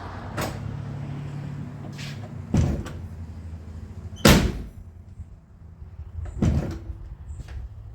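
Car door being operated and shut on its latch: a few light latch clicks, then three heavy door slams about two seconds apart, the middle one the loudest.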